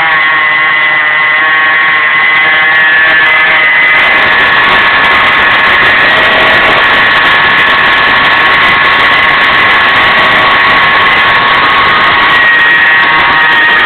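Pontiac Trans Am's LS1 V8 running with a loud, steady high-pitched whine from the belt-driven accessories. The whine comes from the static idler pulley between the power steering pump and alternator, which had run dry and needed re-greasing.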